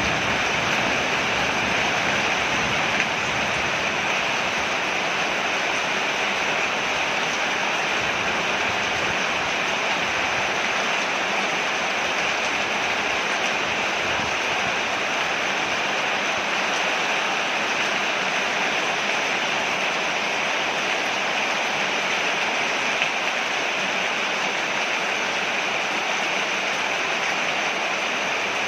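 Rain falling steadily on a porch, an even hiss of water that keeps on without a break.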